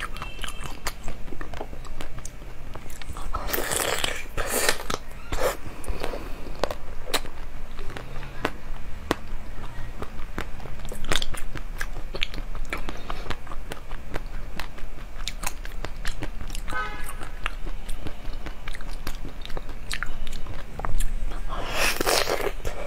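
Close-miked biting and chewing of colourful jelly set in melon-shaped halves: a steady run of wet clicks and smacks from the mouth, with louder crunchy bites about four seconds in and again near the end.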